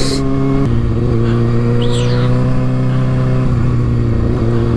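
Kawasaki ZX-6R inline-four with a Yoshimura exhaust running at a steady cruise, its pitch stepping down slightly about a second in and again about three and a half seconds in, with wind rushing over the helmet microphone.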